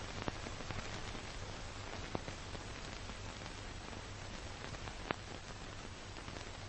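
Steady noise of a moving car, with a low hum and a few sharp clicks.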